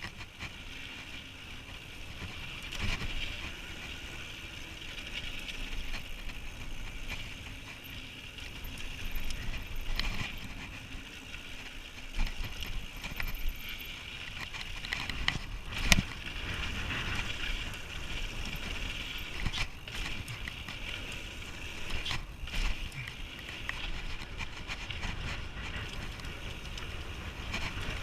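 Mountain bike being ridden along a dirt trail: steady tyre and drivetrain noise with rumble, broken by several sharp knocks and rattles from bumps, the loudest about 16 seconds in.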